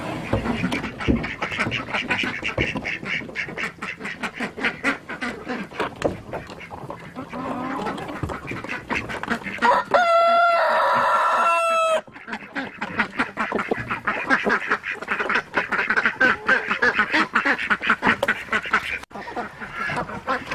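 A mixed flock of ducks and chickens calling together, with continual quacking and clucking. Midway a rooster crows once, a single held call of about two seconds.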